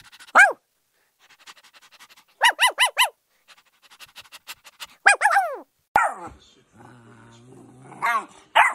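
Puppies yapping in short, high-pitched yelps that drop in pitch, with a quick run of four yips about two and a half seconds in. Near the end comes a low growling stretch, broken by more yelps.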